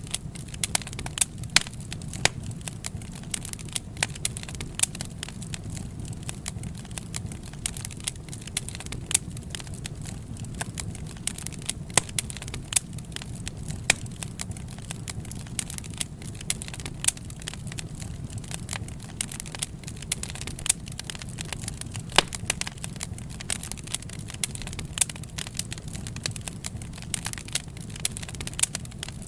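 Wood fire crackling, with irregular sharp snaps and pops over a steady low rumble of burning.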